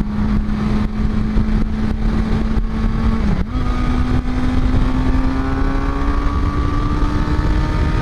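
Motorcycle engine running at road speed with heavy wind rush on the microphone; about three and a half seconds in the engine note drops briefly, a gear change, then climbs slowly as the bike accelerates.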